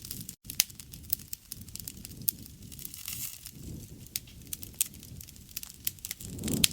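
Wood fire crackling, with many sharp pops and snaps over a low rumble of burning that swells a few times. A split-second gap in the sound falls just under half a second in.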